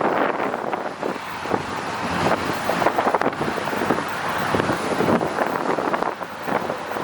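Freight train cars rolling past with irregular clicks and knocks from wheels on the rails, under steady wind buffeting the microphone.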